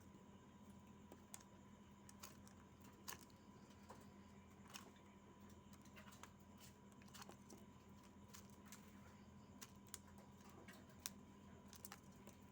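Near silence: a faint steady hum with scattered faint, irregular clicks.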